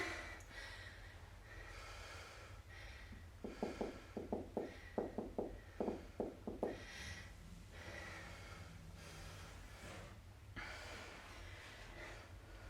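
Faint heavy breathing, breath after breath, during a rest between workout rounds. In the middle comes a quick run of about a dozen short, soft knocks, roughly four a second.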